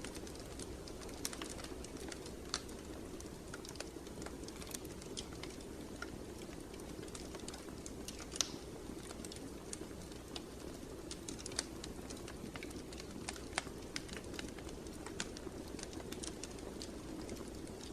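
Wood fire burning in a fireplace: a steady low rush of flames with irregular sharp crackles and pops, one louder pop about eight and a half seconds in.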